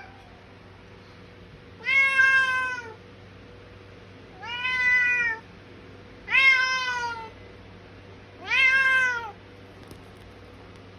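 A domestic cat meowing loudly four times, calls about a second long and two seconds apart, each rising then falling in pitch: shouting meows demanding food at feeding time.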